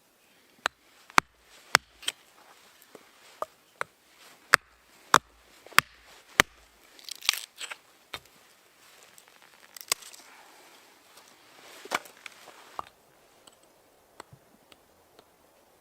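A series of sharp, irregular knocks and clicks, most of them in the first half, with a brief crinkling rustle about seven seconds in.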